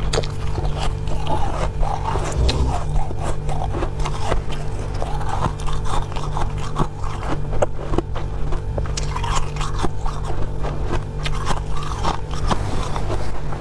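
Close-miked biting and chewing of powdery freezer frost: a dense, irregular crunching crackle, with a steady low hum underneath.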